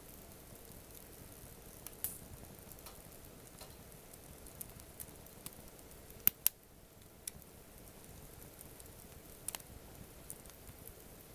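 Wood campfire crackling, with scattered sharp pops over a faint steady hiss; the loudest are two pops in quick succession about six seconds in, and another close pair near the end.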